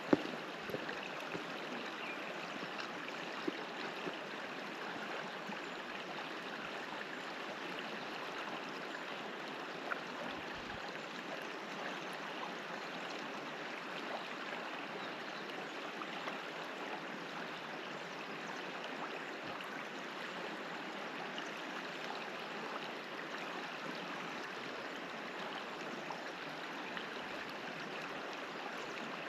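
Macquarie River water flowing, a steady, even rushing, with a few faint knocks in the first seconds.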